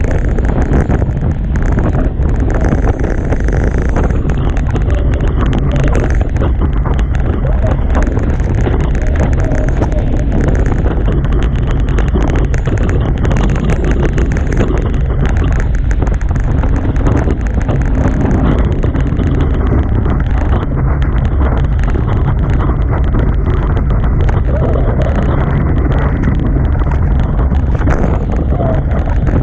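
Strong wind buffeting the on-board microphone over the rush of water past a Hobie Tiger catamaran's hulls at high speed: a loud, steady, rumbling noise that never lets up.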